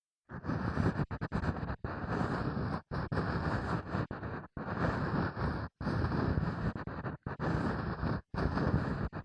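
Ear pick scraping and rubbing inside a microphone's ear, in close, muffled strokes of about a second each with brief pauses between them, starting a moment in.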